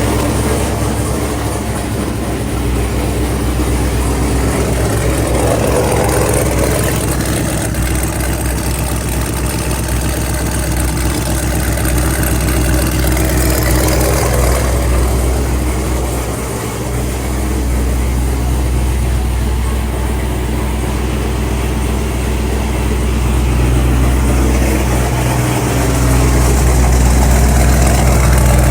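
5th-generation Chevrolet Camaro engine running loud and steady with a deep rumble just after a cold start, its level swelling a little a few times and rising slightly near the end.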